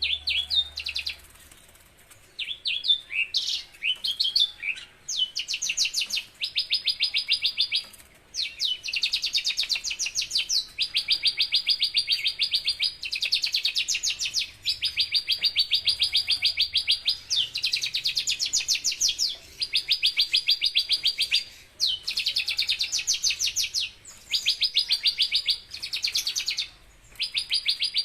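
Branjangan (Horsfield's bush lark) singing. It starts with a few broken chirps, then goes into long, very fast, high trills, each lasting a second or two, repeated again and again with short pauses between them.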